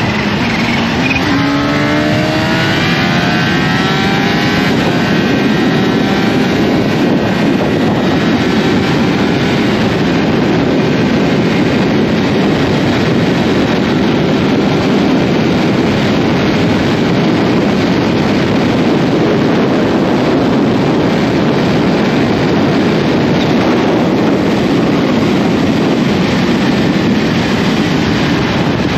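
A vehicle engine accelerating, its pitch climbing over the first few seconds, then a steady rush of engine, road and wind noise at speed.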